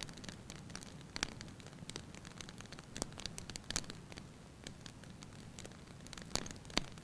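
Wood fire burning in a fireplace: irregular sharp crackles and pops over a soft steady hiss, with a louder pair of pops near the end.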